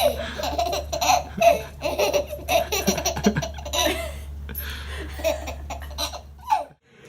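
A baby laughing in many short repeated bursts over a low steady hum, cutting off abruptly near the end.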